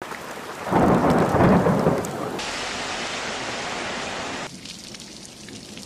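Heavy rain pouring, with a loud rumble of thunder about a second in. The rain sound changes abruptly twice, getting quieter near the end.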